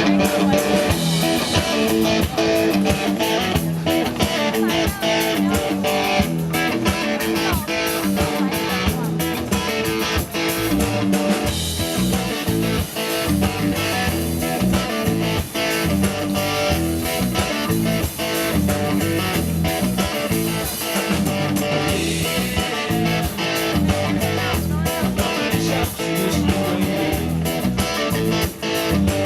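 A rock band playing an instrumental passage, led by electric guitar over bass, with regular drum hits.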